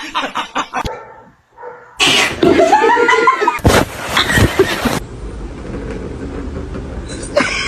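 A pet animal's cries: a couple of drawn-out calls that rise and fall in pitch, between abrupt cuts from one clip to the next.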